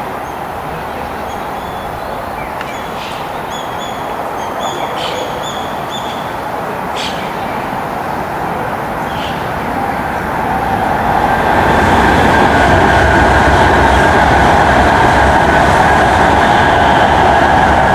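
A train running through the station, its sound swelling about ten seconds in to a louder, steady hum and rumble, with a few short high squeaks in the first half.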